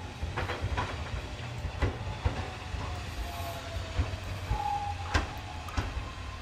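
Hakone Tozan Railway 3000-series 'Allegra' electric train running slowly toward the camera. Its wheels make a low rumble with irregular sharp clacks as they cross the rail joints and points; the loudest clack comes about five seconds in.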